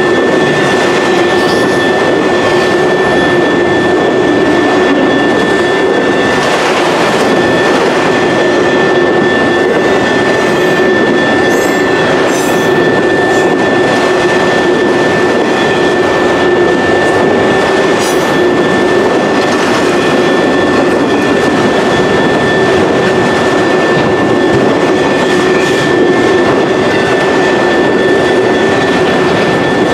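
Freight train of autorack cars rolling past at a grade crossing: loud, steady rumble and wheel-on-rail noise, with a steady high-pitched tone over it and occasional clicks.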